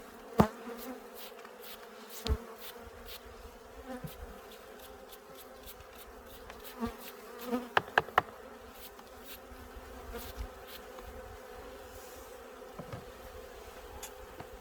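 Honeybees buzzing steadily around an open hive, with a few sharp knocks and clicks, the loudest a quick cluster of three about halfway through.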